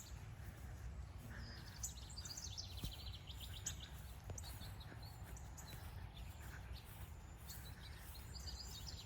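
Songbirds chirping, with a rapid trill about two seconds in and another near the end, over a steady low rumble.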